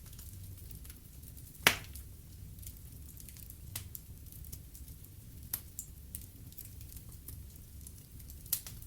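Logs burning in a fireplace, crackling with sharp scattered pops over a low steady rumble. The loudest pop comes a little under two seconds in.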